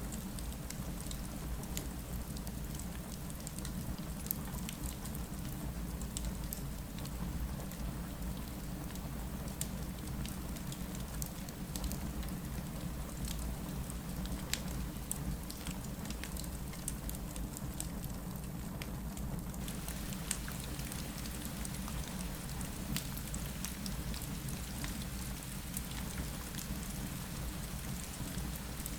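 Steady rain falling against a window, with a fireplace crackling softly under it: a constant even hiss and low rumble, dotted with scattered sharp ticks.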